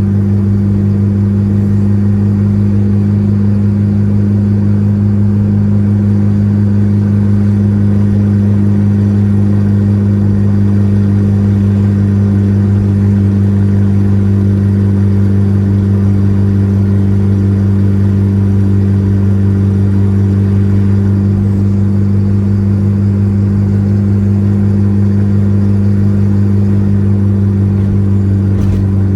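Volkswagen Gol G4 Rallye's engine droning at a steady speed as the car cruises, its pitch holding level.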